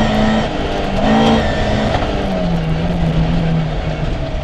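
Rally car engine heard from inside the car, under load on a forest stage. Its note holds fairly steady, rises briefly about a second in, then settles to a lower steady pitch for the second half, as for a downhill hairpin.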